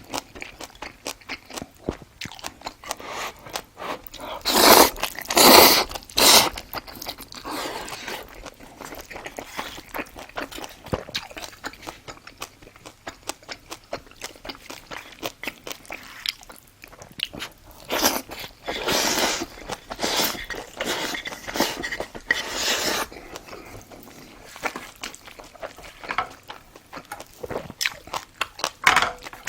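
Close-up crunching and chewing of crisp fried food, a dense run of small crackles with louder crunches of biting about five seconds in and again around twenty seconds in.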